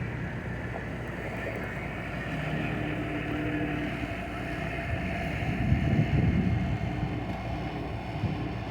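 An engine running steadily with an even hum, and a gust of wind buffeting the microphone about six seconds in.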